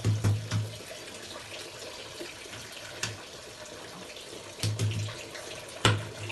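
Water running and splashing, as at a tap or sink while washing, with small clicks and low thuddy knocks and one sharp knock about six seconds in.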